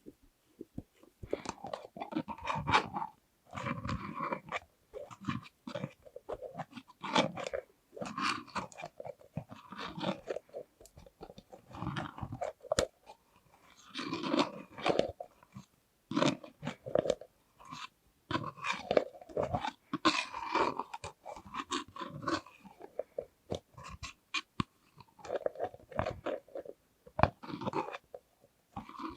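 Close-miked plastic lids being tapped and clicked open and shut, in quick irregular clusters of clicks and knocks with a short hollow ring, separated by brief pauses.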